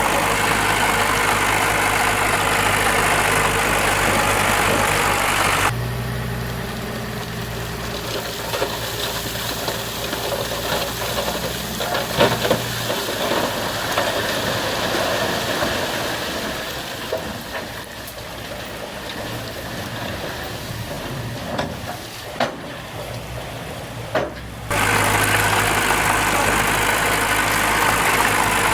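Heavy earthmoving machine's diesel engine running steadily. About six seconds in it drops abruptly to a quieter engine sound with a few sharp knocks, and the loud engine returns just as abruptly near the end.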